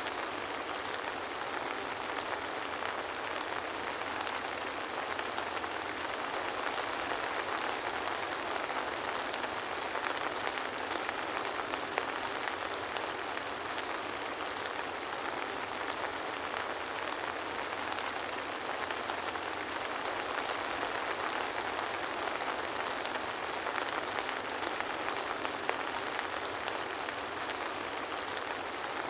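Steady soft rain: an even hiss with faint scattered drop ticks, no thunder.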